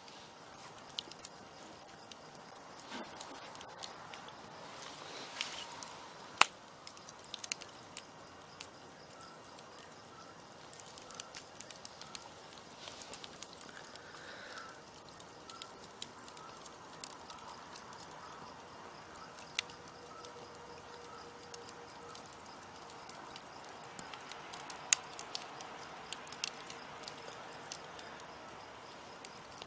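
Open campfire crackling and snapping over a low hiss of burning. Sharp pops come thick and loud in the first several seconds, then grow sparser.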